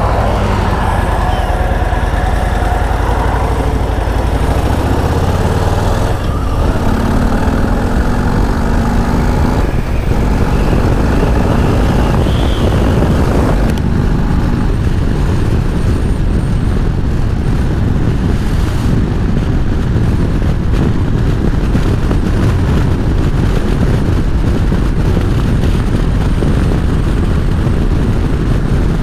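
Harley-Davidson V-twin motorcycle pulling away and riding, its engine note climbing during the first ten seconds or so and then running steadily under a constant rush of road noise.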